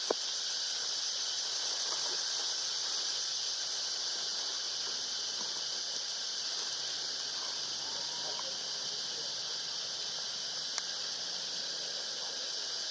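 A steady, high-pitched insect chorus, with a few faint short squeaks over it and a sharp click at the start and another near the end.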